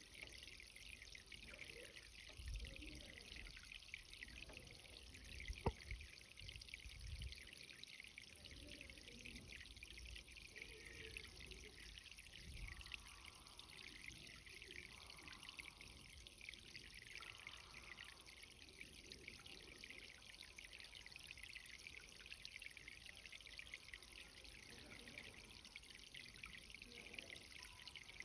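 Irrigation water running over a garden bed: a faint, steady trickling hiss, with a few soft low bumps and one sharp click about six seconds in.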